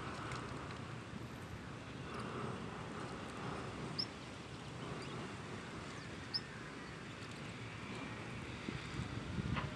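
Birds calling faintly over a steady low rumble, with two short high chirps about four and six seconds in.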